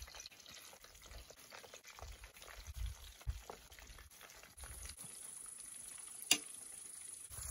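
Battered fish frying in hot oil in a cast-iron skillet over a small wood fire: a bubbling sizzle that settles into a steadier hiss about five seconds in, with one sharp pop a little after six seconds. Gusts of wind rumble on the microphone.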